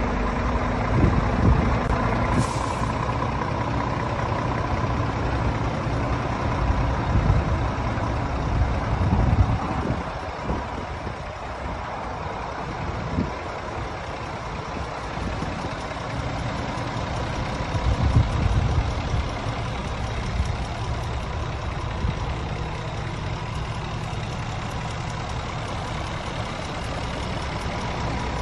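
Scania R450 truck's diesel engine running at a steady idle, a low rumble that swells louder a few times, with a faint steady high tone above it.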